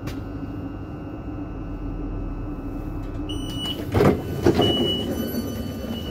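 Steady interior hum of a Class 458/5 electric multiple unit, then a high beeping tone that comes and goes from about three seconds in, and two loud clunks about four seconds in as the sliding passenger doors open at the station.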